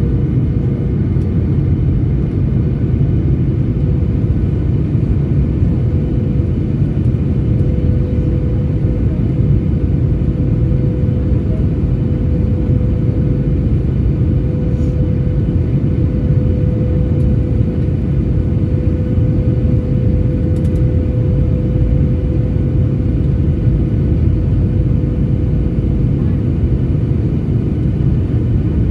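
Passenger jet airliner cabin noise in flight: a steady, loud engine and airflow rumble with a constant droning hum.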